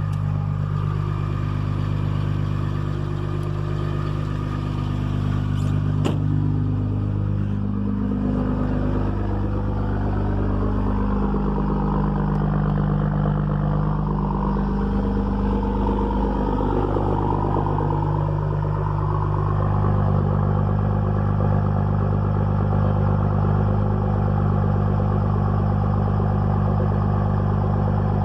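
5.9 Cummins inline-six turbodiesel idling steadily just after a cold start, held at cold high idle. A single sharp click sounds about six seconds in.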